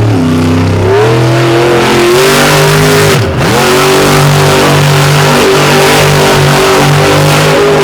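Monster truck engine revving hard under full throttle. The revs drop sharply and briefly about three seconds in, then climb again and hold high while the truck spins its tires.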